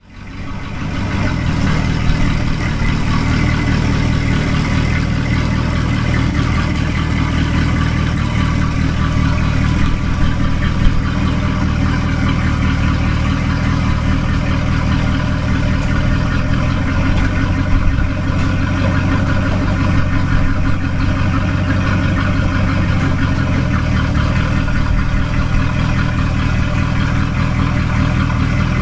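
An old squarebody Chevy pickup's engine idling steadily, a low, even rumble that fades in at the start.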